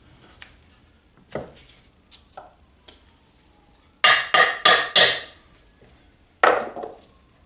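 Hand tools and small metal engine parts clinking and knocking, with a quick run of four sharp, ringing metal knocks about four seconds in and one more near the end. The work is on the valve cover screws of a Briggs & Stratton lawnmower engine.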